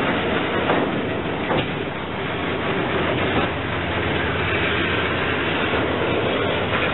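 Freight cars rolling slowly past: a steady rumble of steel wheels on rail, with a couple of short clanks in the first two seconds.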